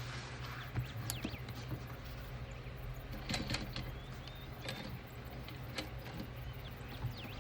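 Scattered light clicks and taps of sewing materials and tools being handled, over a steady low hum, with a few short high chirps.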